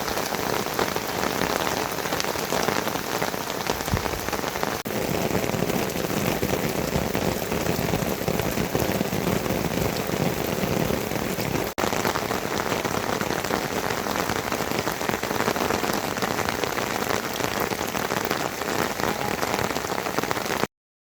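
Steady rain falling, a dense hiss full of fine drop patter. It cuts out for an instant twice and stops abruptly near the end.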